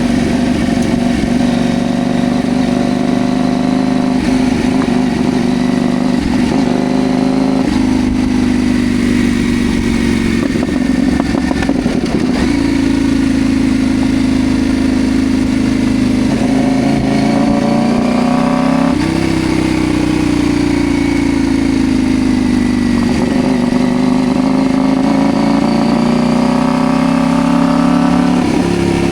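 Riding motorcycle: a CFMoto Ibex 800T's parallel-twin engine running under way, its note rising and falling as the bike speeds up and slows down, with several shifts in pitch over road and wind noise.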